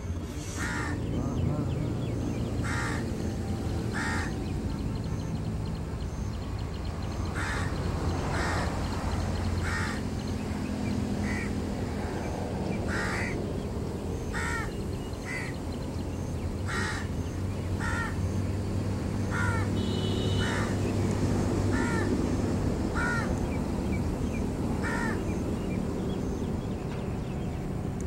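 A bird giving short, harsh calls over and over, roughly once a second, over a steady low rumble.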